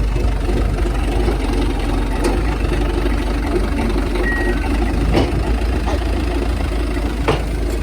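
TCM diesel forklift engine running steadily, with a short high beep about four seconds in and a couple of sharp clicks near the end.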